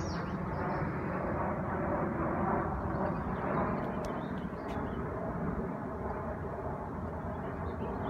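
Jet airliner passing low overhead: a steady, loud rumbling roar that swells slightly and eases, with a few faint bird chirps above it.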